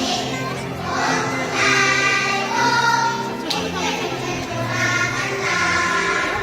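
Young children's choir singing a Korean children's song in sustained, held phrases over a steady instrumental accompaniment.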